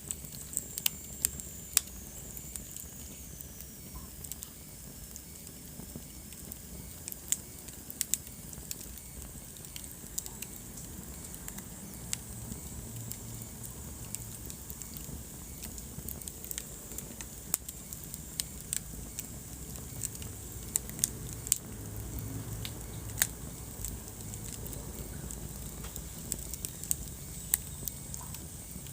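Wood fire in a fireplace crackling, with irregular sharp pops over a steady low rumble of burning. A faint high whistle slides down in pitch about a second in.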